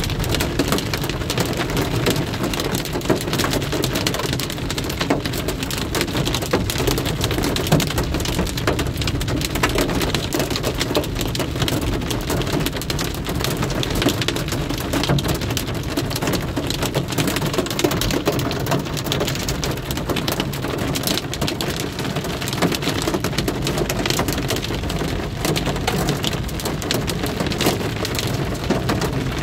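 Heavy rain hitting a car's roof and windscreen, heard from inside the cabin: a dense, steady patter of countless drops.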